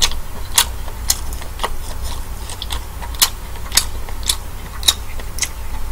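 Close-miked chewing of king black tiger prawn, with short wet mouth clicks about twice a second.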